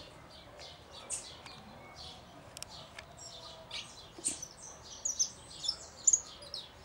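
Small songbirds chirping: short, high chirps and tweets at irregular intervals, coming more often and louder in the second half.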